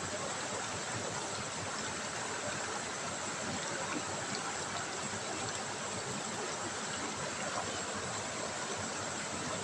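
River water trickling and babbling steadily over stones.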